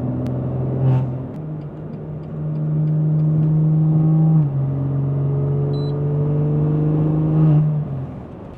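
BMW S55 twin-turbo straight-six with resonated catless downpipes and an equal-length midpipe, pulling at about 2,000–3,000 rpm, heard from inside the cabin. The exhaust note climbs slowly, drops at an upshift about four and a half seconds in, climbs again and falls away near the end, with a little rattle in the exhaust through this rev range.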